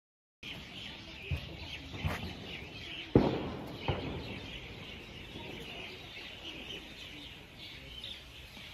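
Many birds chirping steadily together, with a few short knocks, the loudest about three seconds in.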